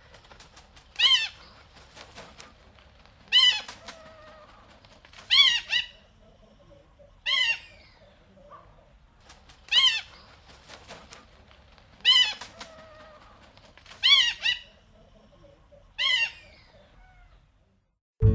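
African fish eagle calling: eight loud ringing calls, about one every two seconds, each a quick run of high yelping notes.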